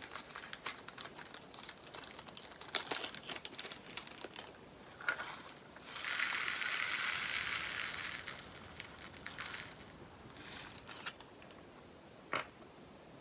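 Diamond painting drills being handled: small plastic clicks and bag crinkling, then a few seconds of tiny resin drills pouring and rattling into a plastic pot, about six seconds in, and a single sharp click near the end.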